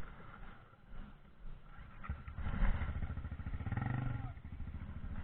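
Dirt bike engine that comes in about two seconds in and runs louder under throttle, loudest near four seconds, then eases slightly.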